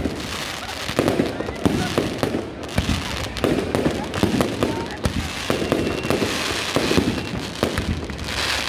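Fireworks display: a steady run of bangs and booms, several a second, each followed by echoing rumble and crackle.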